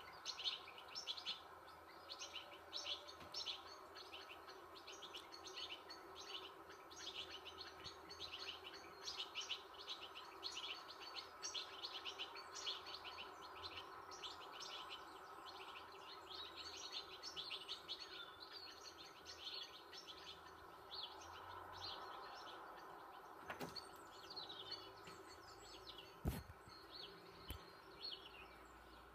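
A flock of small birds chirping in quick, overlapping calls, heard from a nature documentary playing on a TV, over a faint steady background hum. Two sharp clicks near the end.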